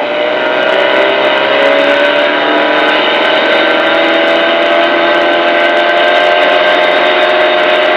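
Car engine running hard at high revs, its pitch rising a little over the first couple of seconds and then holding steady.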